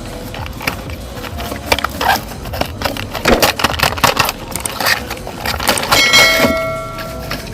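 Plastic toys clattering and rattling in a quick run of clicks and knocks. About six seconds in, a held electronic-sounding tone lasts a second or so.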